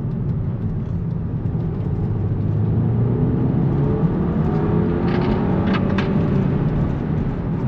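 Audi TT Mk2 2.0 FSI four-cylinder engine pulling hard in second gear under full throttle, its note rising steadily in pitch from about three seconds in as the revs climb.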